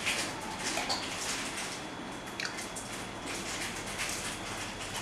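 Chewing of a crunchy sugar-coated, cream-filled cookie, an irregular noisy crunching.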